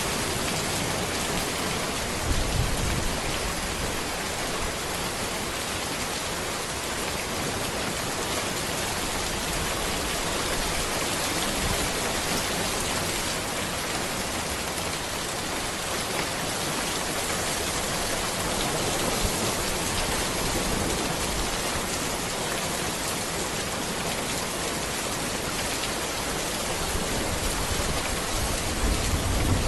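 Steady rain falling on a road: a dense, even hiss of drops. There are brief low rumbles about two seconds in and again near the end.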